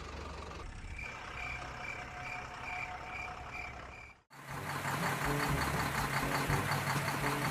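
A vehicle reversing beeper sounding quickly, about three beeps a second, over a low engine hum. About four seconds in it cuts off suddenly and a louder, busier sound with a steady low hum takes over.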